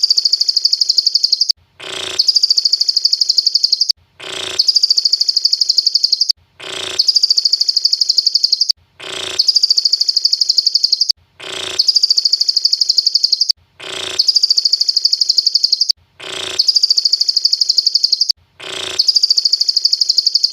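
Lovebird song in the style of a cililin bird: a short sharp note followed by a rapid, high-pitched trill, the same phrase repeated about every two seconds. The identical repeats and clean gaps are those of a looped mastering recording.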